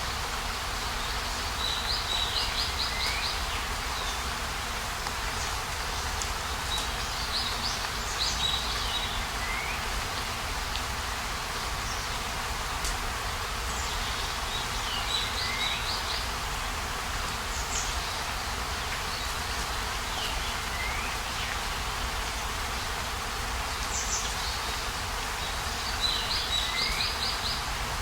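River water streaming over rocks with a steady rush. A small bird calls repeatedly over it: a quick run of high notes, then a falling note, recurring every six seconds or so.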